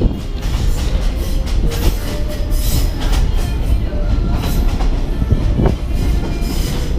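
Inside a moving passenger train carriage: a steady low rumble with irregular knocks and rattles as the car shakes hard over poor-quality track.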